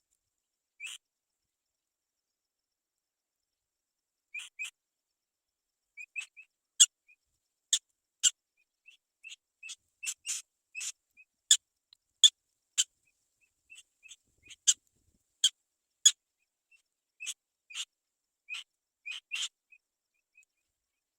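Black-winged kite chicks giving short, sharp, high-pitched whistled calls: only a few at first, then many in quick succession from about six seconds in.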